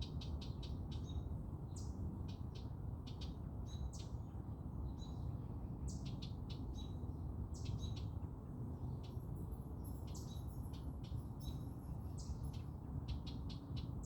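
Small songbirds chirping with many short, sharp notes in quick succession, with a thin high trill joining in partway through, over a steady low rumble.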